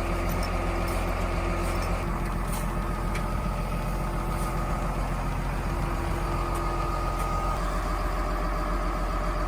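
Large vehicle engine, such as a truck or heavy snow-clearing machine, running steadily, its tone shifting slightly a couple of times.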